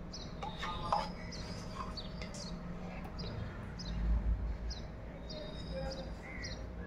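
Small birds chirping in the background: short, high, downward-sliding chirps, two or three a second, over a low steady hum. A dull low thud comes about four seconds in.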